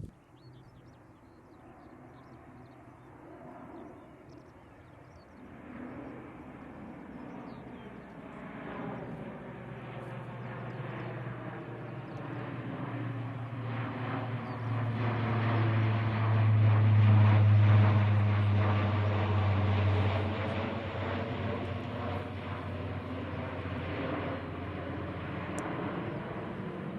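A C-130 Hercules four-engine turboprop flying past. Its low propeller drone builds over about fifteen seconds, is loudest a little past the middle, then slowly fades.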